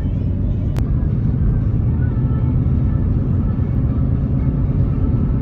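A loud, steady low rumble, with a single sharp click about a second in.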